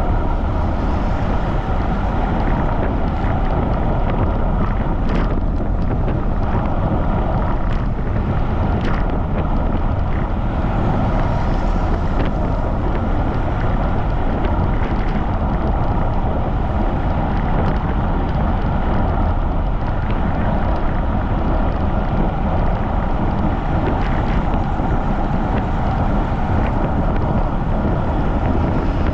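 Strong wind buffeting the microphone while riding a bicycle at speed: a steady, loud rumble of wind noise with a few faint clicks in it.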